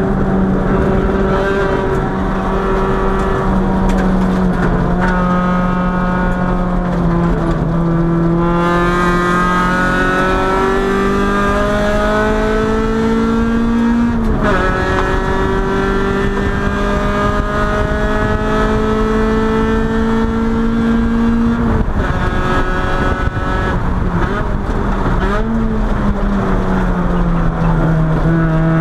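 Honda B20B inline-four engine heard from inside the car under track driving. The revs climb in long steady pulls; about halfway through the pitch drops sharply with an upshift and climbs again. A few seconds later the revs fall off sharply, with one short blip after.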